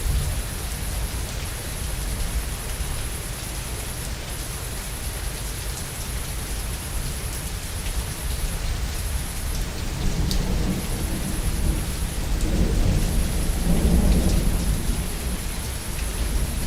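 Steady heavy rain falling, with thunder rumbling low beneath it, building to its loudest roll about two thirds of the way through.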